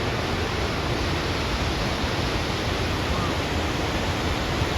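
Steady rushing roar of the Lechfall, the waterfall on the Lech river, as an even wash of falling water with no breaks.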